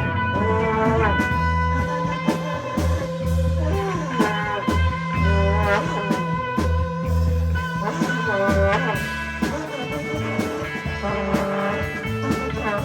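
A rock band playing live: electric guitar with bending, sliding notes over pulsing bass notes and drums.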